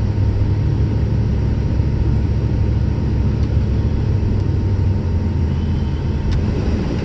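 Steady low rumble of a four-wheel-drive vehicle on mud tires driving through wet, heavy snow, heard from inside the cab, with a single click about six seconds in.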